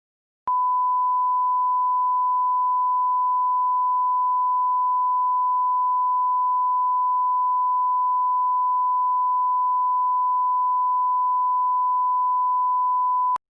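Steady 1 kHz sine-wave line-up tone at −18 dB reference level, used for broadcast audio alignment. It starts about half a second in and holds unchanged until just before the end.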